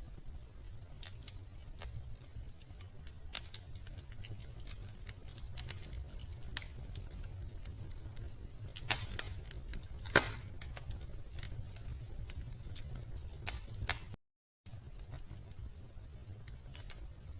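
Wood fire crackling in a fireplace: scattered snaps and pops over a low steady rumble, with two sharper, louder pops about nine and ten seconds in. The sound cuts out completely for about half a second near the end.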